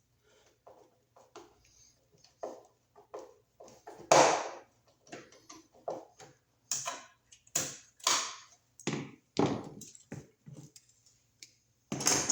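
Irregular small metal clicks, knocks and scrapes of a ground screw and washer being fitted and driven into a metal electrical box, with one louder knock about four seconds in.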